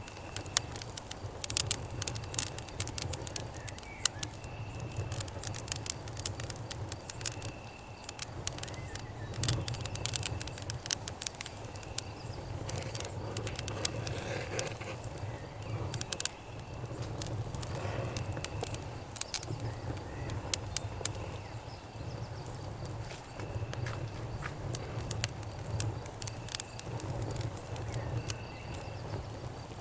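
Campfire crackling with irregular sharp pops, over a cricket chirping at regular intervals and a steady high insect drone. A low steady rumble runs underneath.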